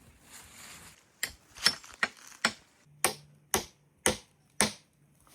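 A hand tool striking timber: about eight sharp blows, roughly two a second, starting about a second in, as when building a wooden frame.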